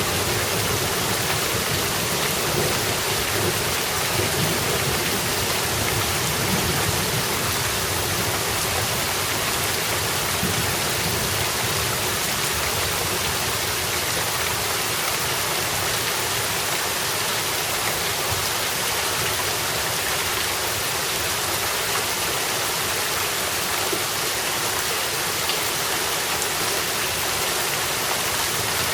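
Steady rain falling and splashing on surfaces in a thunderstorm, with a low rumble of thunder through the first half.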